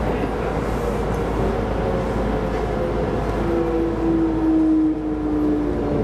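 Keisei Line electric train running on the rails: a steady rumble of wheels on track. From about halfway in, a motor hum joins it and sinks slowly in pitch.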